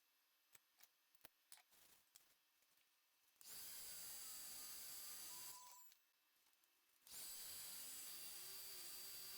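A few light clicks, then a handheld heat gun blowing steadily, switched on about a third of the way in, off briefly past the middle, and on again.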